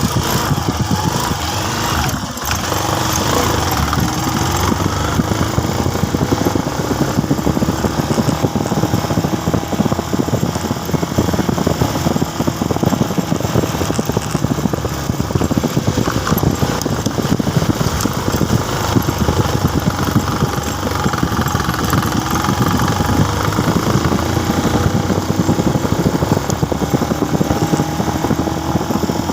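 Motorcycle engine running while riding, its pitch slowly rising and falling with speed, over a steady rush of noise.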